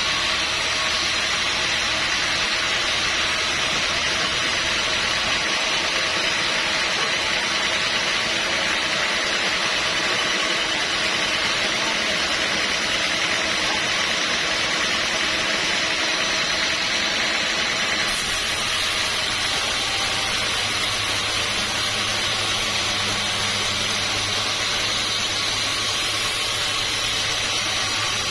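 Sawmill machinery running steadily, a constant hiss with no breaks. About 18 s in the sound shifts slightly and a low hum joins it.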